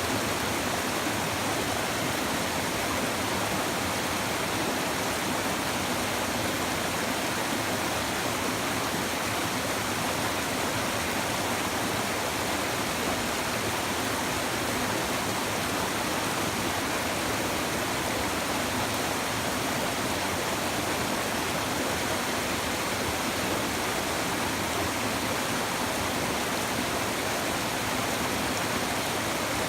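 A shallow river babbling and rushing over stones, a steady, even flow of water with no pauses.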